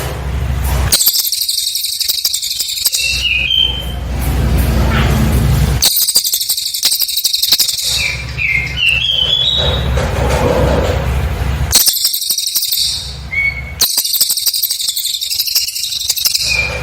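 Cililin bird singing: rapid, dense, high-pitched trilled bursts of one to two and a half seconds, separated by regular pauses holding short runs of whistled notes that step upward in pitch.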